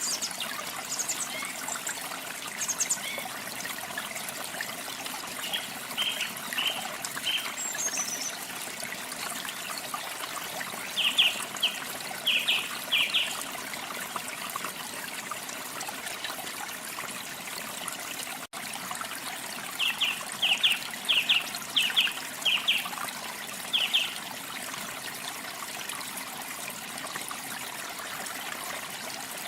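Steady rush of falling water from a waterfall, with a songbird giving short, sharp chirps in quick groups of three to six, several times. The sound drops out for an instant near the middle.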